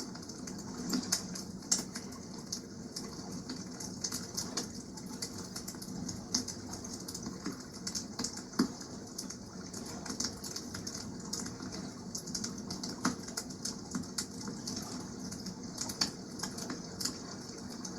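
Wood campfire crackling, with irregular sharp pops and snaps, a few much louder than the rest, over a steady wash of water in the background.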